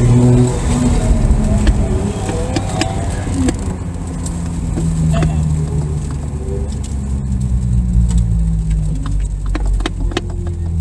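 Car engine running hard on track, heard from inside the car, its pitch rising and falling with the throttle, with sharp clicks and rattles over it.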